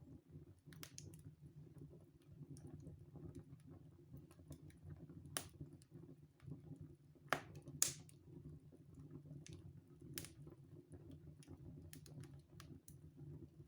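Wood fire crackling in a fireplace: faint, irregular small snaps, with two louder pops about halfway through.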